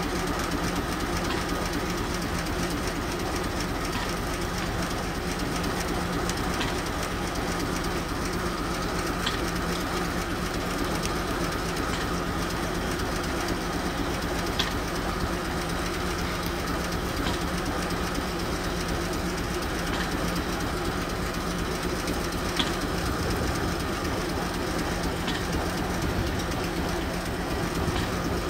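Steam traction engine and belt-driven sawmill running steadily, with a constant hum and a few sharp clicks scattered through it.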